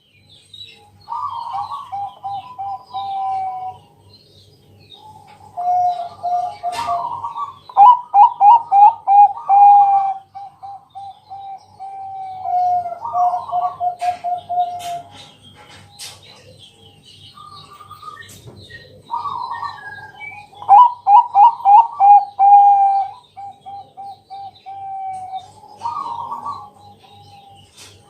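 Bangkok-strain zebra dove (perkutut) singing: repeated phrases of rapid, staccato coos, each phrase a quick run of notes ending in a rolling trill, with short pauses between phrases. A few short clicks and a faint low hum lie underneath.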